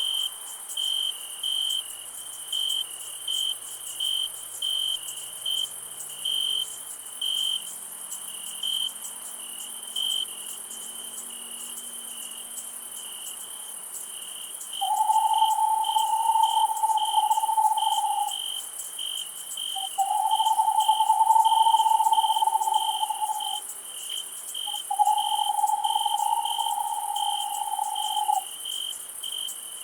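Crickets chirping in a steady, even rhythm, about three chirps every two seconds, over a continuous high insect hiss. From about halfway, three long, even calls of a few seconds each, lower in pitch, come in one after another and are the loudest sound.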